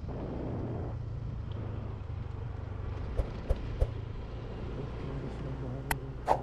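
Motorcycle engine running steadily while riding, a low even hum, with three short sharp ticks about three seconds in and two more near the end.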